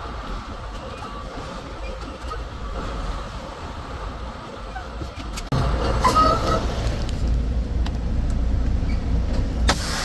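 Semi-truck driving: steady engine and road rumble, which suddenly gets louder and heavier about five and a half seconds in, with a few clicks and squeaks just after.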